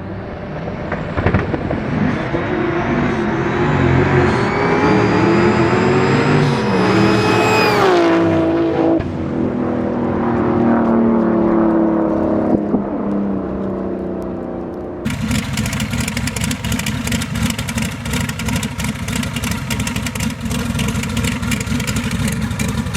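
Race car engines at full throttle, rising steadily in pitch, then dropping sharply about eight seconds in and running on lower as they fade. About fifteen seconds in the sound changes abruptly to a rough, crackling rumble.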